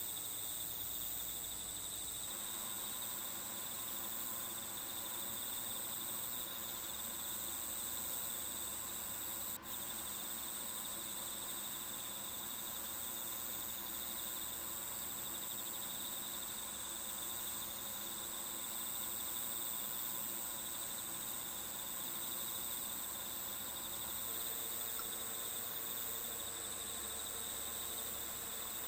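Steady chorus of crickets chirring at several high pitches, with a single brief click about ten seconds in.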